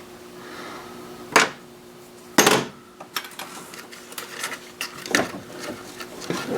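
Plastic charcoal canister being worked loose and lifted out of the engine bay after its single retaining bolt is removed: two sharp knocks about a second apart, then a run of small clicks and rattles.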